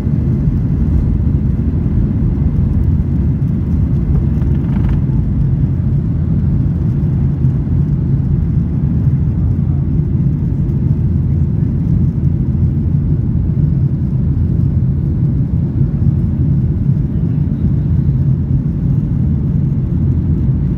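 Airplane engines during takeoff: a loud, steady low rumble that holds even throughout.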